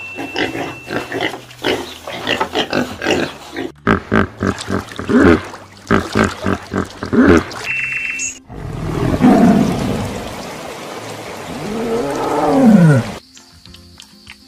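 A pig grunting in a quick series of short calls, followed by two long, rough animal calls that fall in pitch, over background music.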